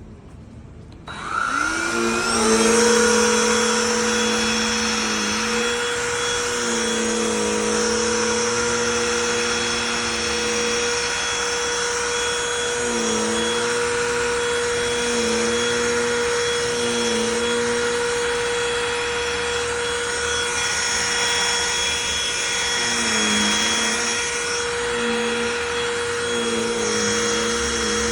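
Cordless handheld vacuum switched on about a second in, its motor spinning up with a rising whine and then running steadily. Its lower hum dips in pitch now and then.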